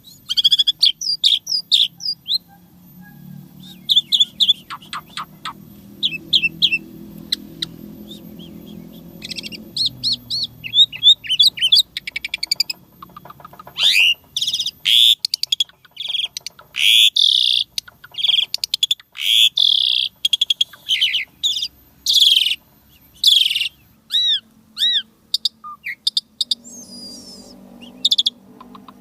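Asian pied starling (jalak suren) singing a long, varied song: rapid runs of sharp whistles, sweeping chirps and fast trills, the song stuffed with copied phrases. The song is densest in the middle.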